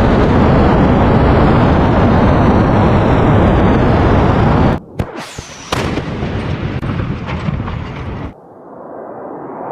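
Loud, continuous rumble of explosions from weapons impacts, cut off suddenly about five seconds in. A few sharp cracks follow, then a fading rumble that cuts off again near the end.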